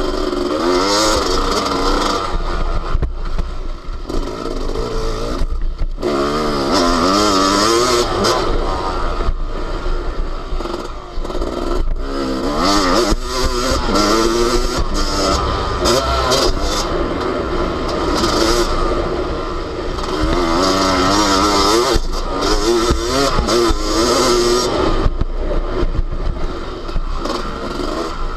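Yamaha YZ250 two-stroke motocross bike engine heard on board, revving hard and falling back again and again as the rider works the throttle and gears around the track, with brief throttle chops between.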